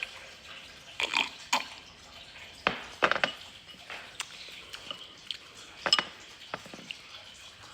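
Close-up eating sounds of a bowl of spicy noodles: irregular wet slurps and mouth smacks, with a few sharp clicks like a utensil touching the bowl.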